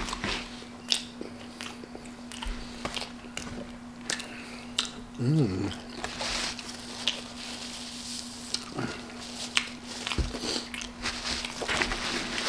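Close-up chewing and crunching of fast food, with many short sharp crunches and mouth clicks. About five seconds in, a short closed-mouth "mm" is heard, and a steady low hum runs underneath.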